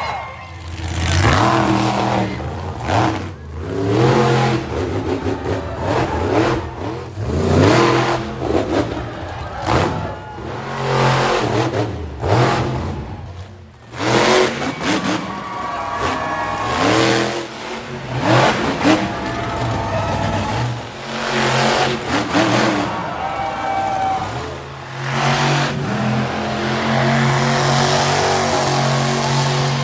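Monster truck engines revving hard again and again, the pitch sweeping up and falling back, in short clips with abrupt cuts; over the last few seconds an engine holds a steadier tone.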